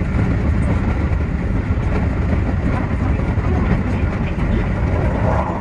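Keio 8000 series electric train running along the line, heard from inside the driver's cab as a steady, loud rumble of wheels on rails, with a faint clickety-clack. Near the end a higher-pitched sound joins in.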